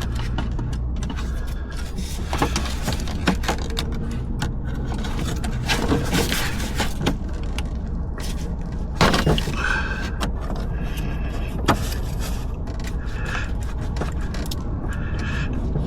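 Scattered metallic clinks and scrapes of tools and parts being handled during engine-bay work, with a louder clatter about nine seconds in, over a steady low hum.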